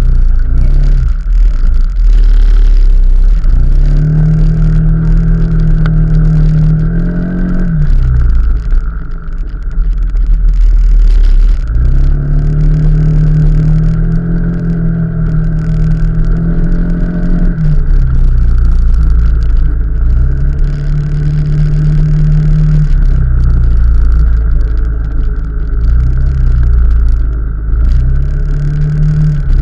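Motorcycle engine on the move, its note climbing to a steady pitch and falling back about five times as the rider speeds up and eases off, over heavy low wind rumble and a steady hiss.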